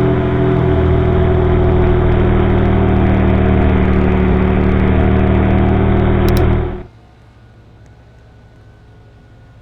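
A car engine running steadily at a constant speed, loud and close, that stops abruptly about seven seconds in, leaving only a faint background.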